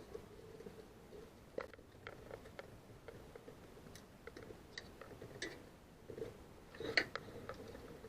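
Faint, irregular small clicks and light knocks, like small parts being handled, with the loudest click about seven seconds in.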